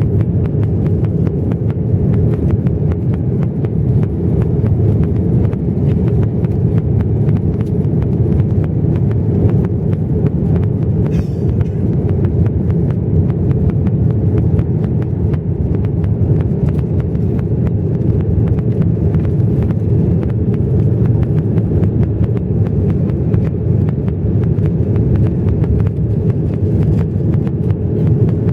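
Steady low drone of an Airbus A330-300's jet engines and rushing air as heard inside the cabin in flight, even and unbroken throughout.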